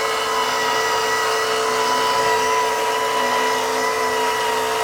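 Small electric motors of a scale-model RC conveyor plant running with a steady whine.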